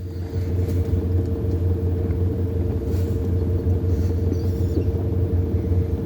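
A steady low mechanical rumble with a constant mid-pitched hum over it, unchanging throughout.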